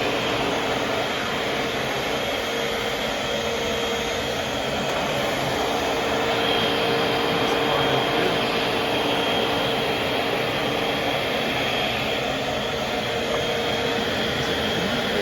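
Eureka upright vacuum cleaner running steadily, a constant motor whine over rushing air, with its brush roll not turning.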